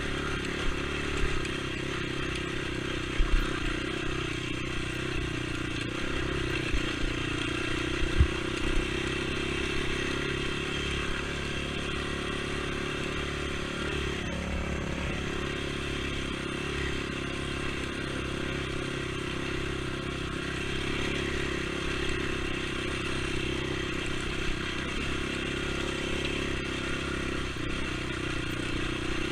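ATV engine running at a fairly steady pitch while riding, with a few sharp knocks in the first several seconds.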